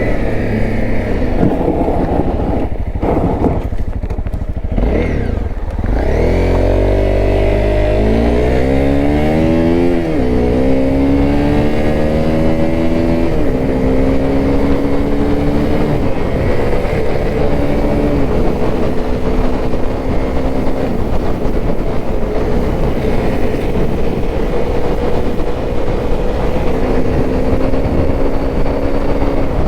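Honda CRF250L's single-cylinder four-stroke engine on the move: low and uneven for the first few seconds, then pulling up in pitch with upshifts about ten and thirteen seconds in, then holding a steady cruise.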